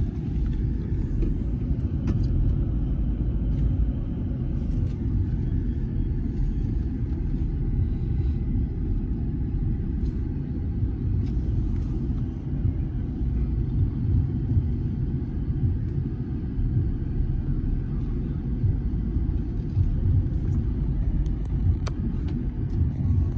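Steady low rumble of a motor vehicle, with no revving.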